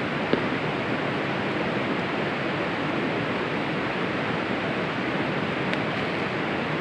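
A steady rushing noise, like weather or water, with a few faint ticks about a third of a second in and again near the end.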